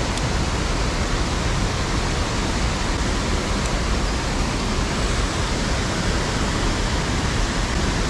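Steady, even rush of water spilling over a creek spillway.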